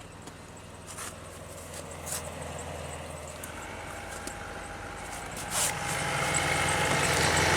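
2001 Pontiac Aztek GT's V6 engine idling steadily. From about halfway through, a whirring rises over the idle and grows louder near the end, a noise the owner puts down to the air compressor.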